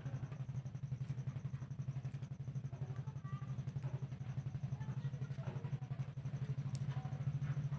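A steady low engine-like hum, pulsing rapidly and evenly, with a few faint clicks over it.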